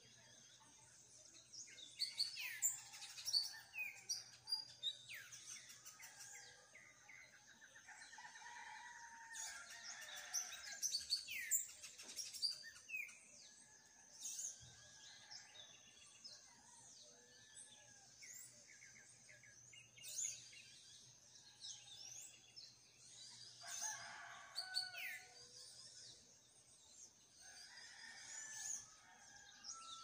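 Birds chirping and singing, with quick overlapping chirps and short whistles coming in scattered bursts, over a faint steady high-pitched hiss.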